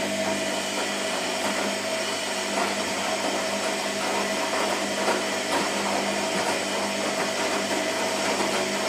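Washing machine running steadily: a motor hum and a steady whine over a rushing noise, with faint irregular knocks.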